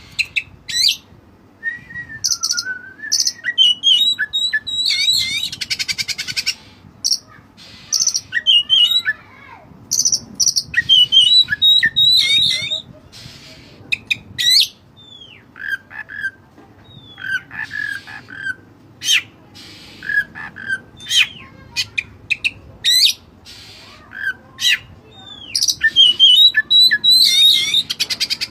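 White-breasted Oriental magpie-robin singing loudly and continuously, in varied phrases of clear whistles, sliding notes, fast trills and buzzy rattles separated by brief pauses.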